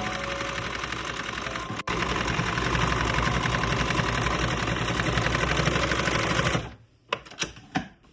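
A small machine running with a fast, even clatter of rapid ticks, broken by a brief gap about two seconds in. It stops suddenly near the end and is followed by a few separate clicks.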